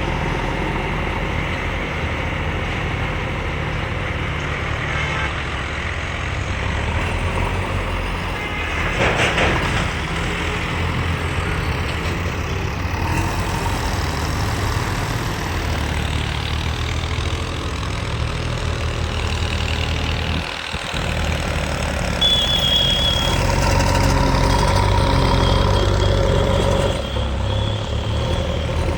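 Diesel engine of a JCB 3DX backhoe loader running steadily as it works, with small swells in level. A higher steady whine sits over it for several seconds, starting about two-thirds of the way in.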